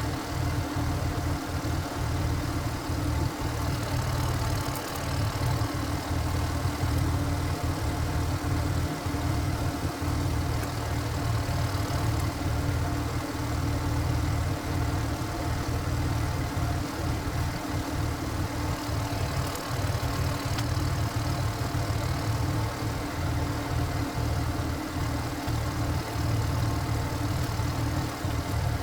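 Korean power tiller's single-cylinder diesel engine running steadily, working a firewood splitter.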